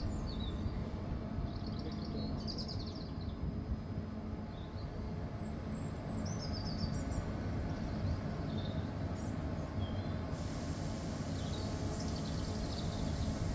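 Steady low rumble of a train at the station, with small birds chirping several times over it.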